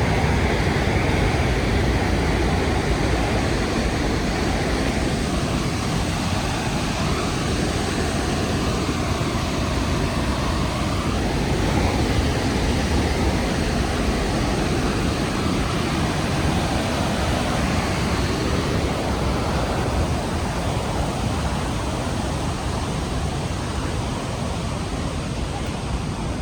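Steady rushing of a large waterfall, the Rhine Falls, a constant even roar of falling water with no breaks.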